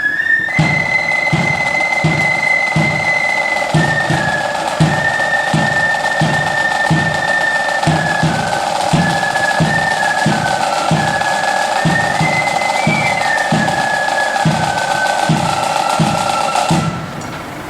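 Marching flute band playing a tune: flutes carry a high melody over snare drums rolling and a steady bass drum beat of about two strokes a second. The band stops sharply near the end.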